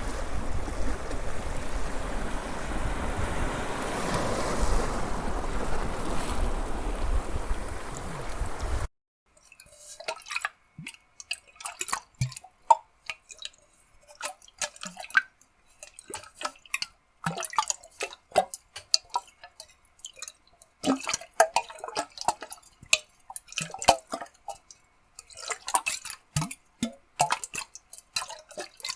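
Water splash sound effects in sequence: a steady rushing of water that cuts off suddenly about nine seconds in, followed by many small drips and plops of water in irregular clusters with short silent gaps.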